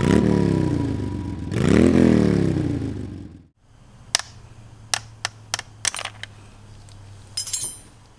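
A 2020 Triumph Speed Twin's 1200 cc parallel-twin engine revved twice, the pitch climbing and falling back each time. It then settles to a low steady idle, with several sharp clicks and a short burst of noise near the end.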